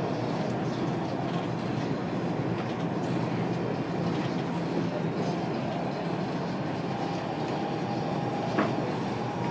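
Dubai Metro train running between stations, heard inside the carriage: a steady rumble of wheels and motors, with a faint steady whine in the last few seconds and a single sharp click about eight and a half seconds in.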